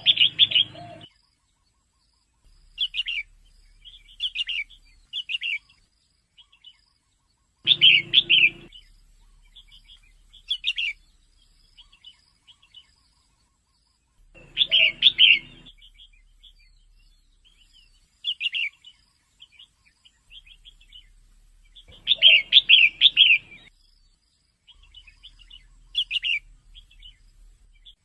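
Female red-whiskered bulbul calling in short, chattering phrases. A louder phrase comes about every seven seconds, with softer calls between.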